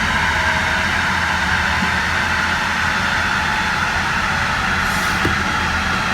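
A truck on a chassis dynamometer coasting down in neutral: tires and dyno rollers spinning down with a steady drone and a whine that slowly falls in pitch, the engine idling underneath.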